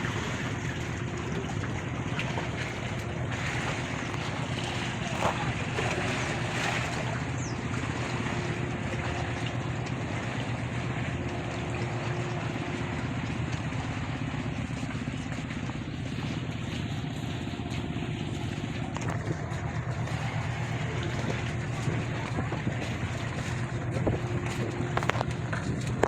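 A ship's engine running steadily on board: a constant low hum with a drone note above it, under a haze of wind and rushing noise.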